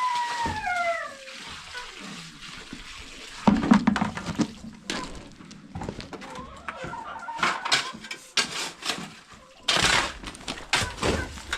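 A rooster crowing, its held note falling away at the end. Then come irregular knocks, scrapes and splashing of work with water and building materials, loudest about three and a half seconds in and again near the end.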